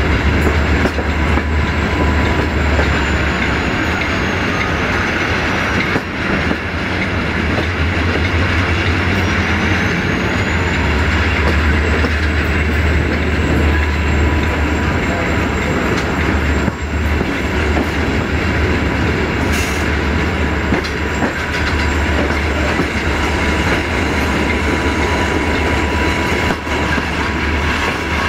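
Regional passenger train running along the line, heard from on board: a steady rumble of wheels on rails with a few rail-joint knocks and a thin high whine that dips and rises again.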